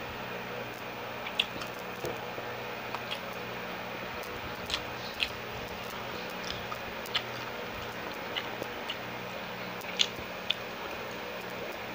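Close-miked chewing of siomai dumplings: wet mouth smacking with irregular sharp clicks, over a steady background hum.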